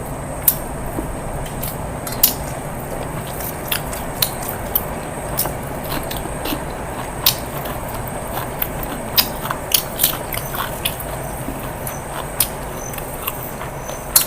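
A person chewing and biting into food close to the microphone, biryani with salad, with irregular sharp crisp clicks over a steady background hum.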